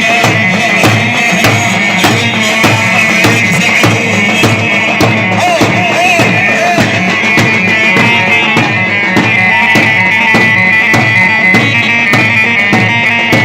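Iraqi choubi dance music: a steady, driving drum beat under a loud, sustained high melody line, with no singing.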